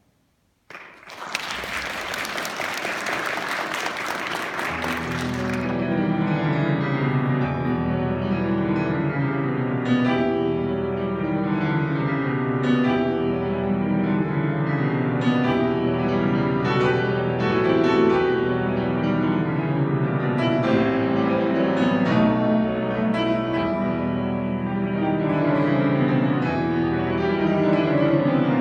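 Audience applause for about five seconds, then a solo piano begins a classical piece and plays on steadily.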